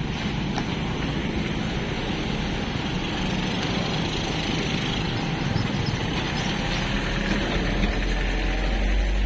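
Train running past, a steady engine rumble and rolling noise with a deep hum growing stronger near the end.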